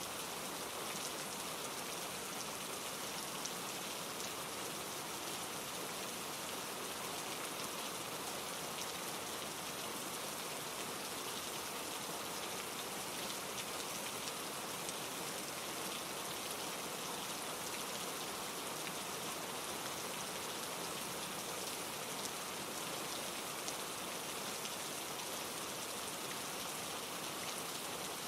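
Steady rain falling, with fine pattering drops over an even hiss, blended with a mountain stream tumbling over rocks and wind through the trees.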